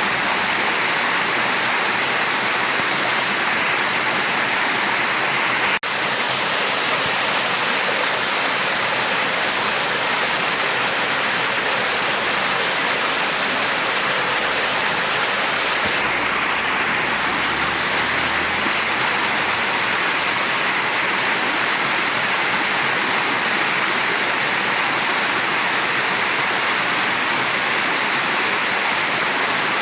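Mountain stream rushing steadily over rocks, an even wash of water noise, with a momentary dropout about six seconds in.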